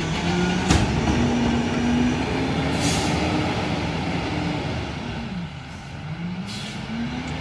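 Freightliner M2 rear-loader garbage truck's diesel engine pulling away, its pitch rising, easing off around the middle and rising again near the end. Two short hisses of air, about three seconds and six and a half seconds in.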